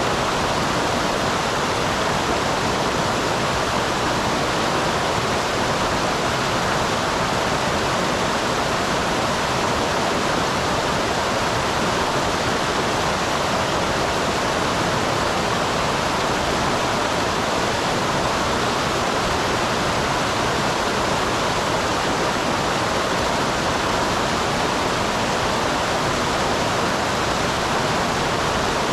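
Small waterfall and mountain stream rushing, a steady, unbroken sound of falling and flowing water.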